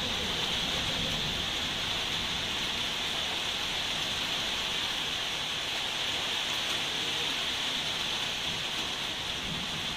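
Rain falling steadily, an even hiss that holds at one level with no breaks or claps of thunder.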